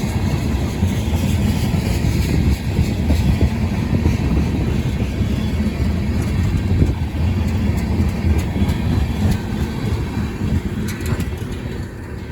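Freight train rolling past: a steady rumble of wheels on rail with scattered clicks and clacks, easing a little near the end.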